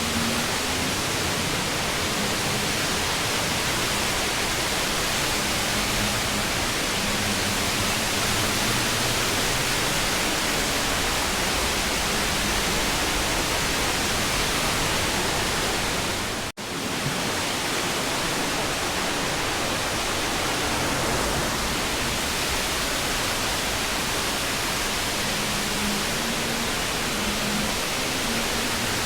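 Waterfall's falling water making a steady, even rush of noise, broken by an instant's dropout about halfway through.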